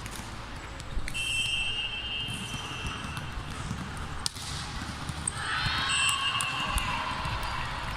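Basketball game on a hard indoor court: the ball bouncing and shoes squeaking high and sharp, about a second in and again near the end.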